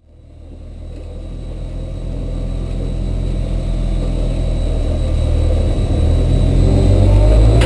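Race car engine running at low revs, heard from inside the cockpit, gradually getting louder; near the end the revs begin to climb.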